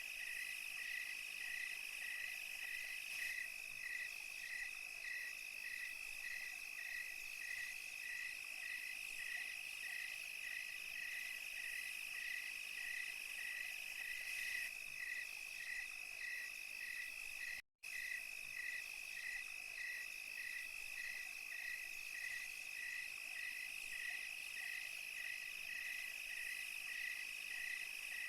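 Night chorus of crickets and other insects: a steady high trill, with a second insect chirping in even pulses about twice a second. The whole chorus cuts out for a split second about eighteen seconds in.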